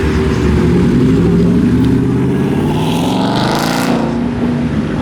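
Loud modified car engine and exhaust as a car moves through the lot, its engine note rising and falling, with a rush of higher hiss about three and a half seconds in.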